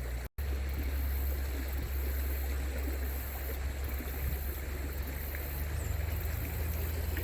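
Stream water rushing steadily where salmon are running upstream, with a heavy low rumble. The sound drops out for a moment just after the start.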